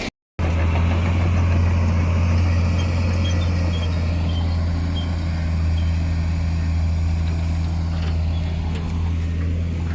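Heavy diesel engine of earthmoving equipment running at a steady speed, a deep even drone. It starts abruptly after a split-second gap.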